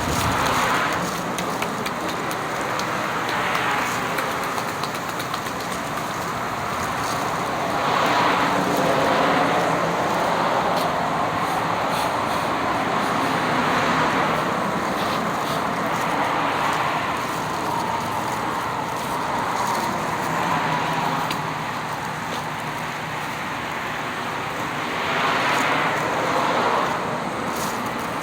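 Road traffic: a steady rush of passing vehicles, with several cars swelling up and fading away one after another.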